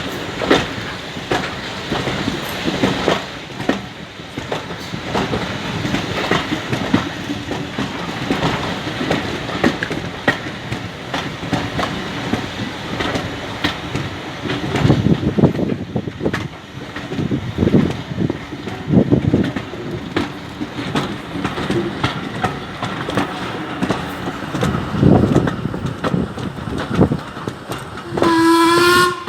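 Heritage steam train under way: wheels clattering over the rail joints and the carriage rattling, with one short whistle blast from the locomotive about a second before the end.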